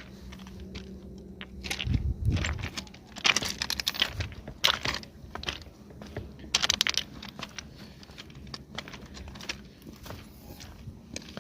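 Irregular crunching and rustling: clusters of short, sharp crackles that come and go, loudest about a third and two-thirds of the way through, over a faint low hum.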